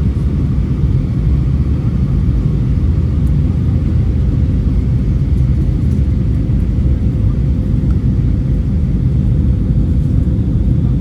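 Steady low rumble of cabin noise inside an Airbus A321 in flight, from its engines and the air rushing past the fuselage, with a faint steady hum above it.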